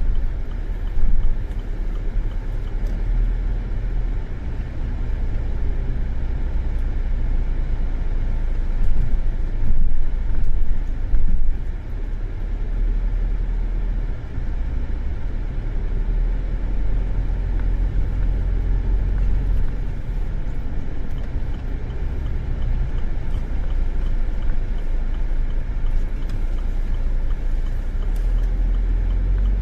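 Steady low rumble of a car heard from inside it, with a few brief louder swells about a second in and again around the middle.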